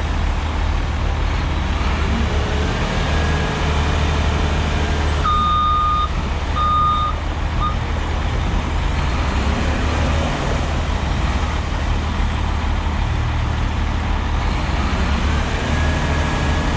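Heavy diesel engine running steadily, with a backup alarm beeping three times about five seconds in, the last beep short.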